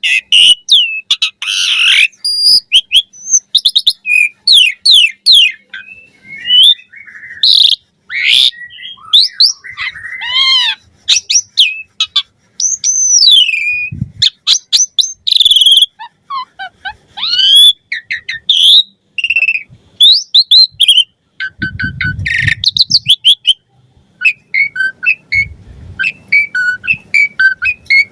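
Asian pied starling (jalak suren) singing a loud, varied song: quick whistles sweeping up and down, chirps and fast stuttering runs of notes, broken by short pauses. Twice in the second half a brief low rumble sits under the song.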